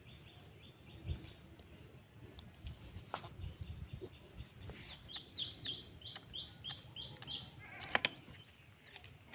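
A bird giving a quick run of about nine short, high chirps from about halfway through. There are two sharp clicks, one about three seconds in and a louder one near the end.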